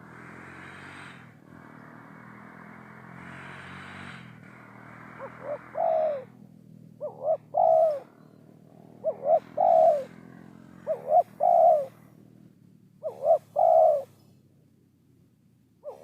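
Spotted dove cooing: starting about five seconds in, five phrases at roughly two-second intervals, each a couple of short notes running into a longer coo. Before the calls there is a faint steady hiss.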